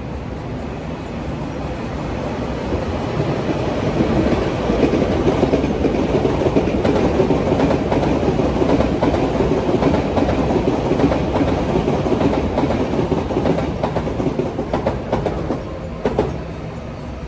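A train passing by. Its rumble builds, runs loud for about ten seconds, then falls away, with the clickety-clack of wheels over rail joints near the end.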